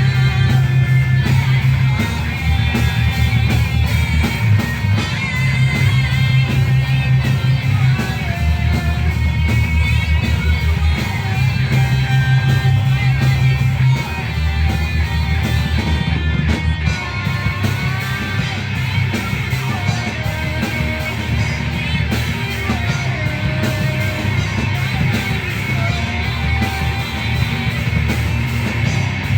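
Rock band playing together, with guitar prominent over a low bass line that shifts to a new note about every two seconds.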